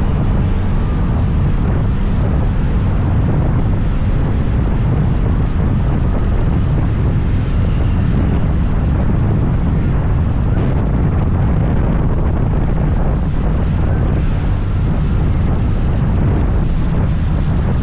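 Scooter engine running steadily under way, mixed with wind rushing over the microphone.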